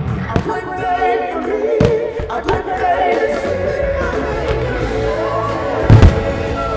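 Music with singing, cut by several sharp bangs of firework shells bursting. The loudest, deepest bang comes about six seconds in.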